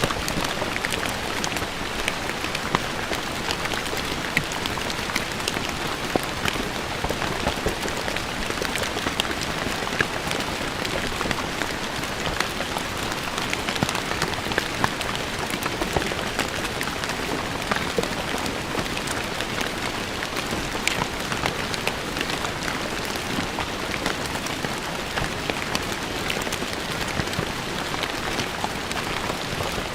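Steady rain falling on stone paving, an even hiss dotted with the sharp patter of individual drops striking the stone.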